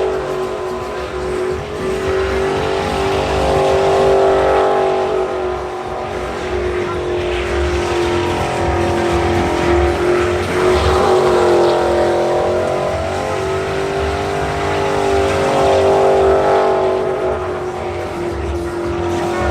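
Truck engine held at high revs through a burnout, its pitch slowly dipping and rising again, with tyres squealing over it.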